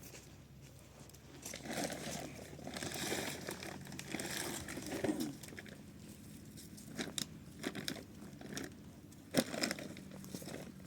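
Irregular rustling and crinkling with scattered sharp clicks and knocks, as of objects being handled; one louder knock comes near the end.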